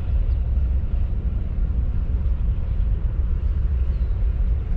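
Steady low rumble of wind buffeting the microphone, with no clear pitch and no breaks.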